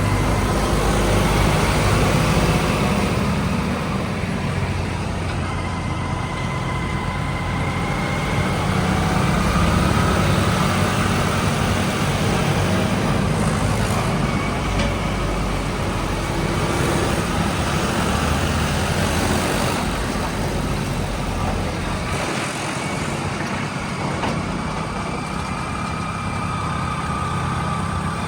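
Heavy diesel engines of earthmoving vehicles running steadily, with a faint high whine coming and going above the rumble.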